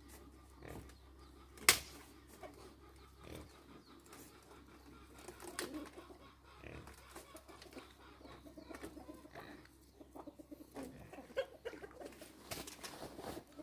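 Chickens clucking softly among scattered knocks and rustles, with one sharp click a couple of seconds in.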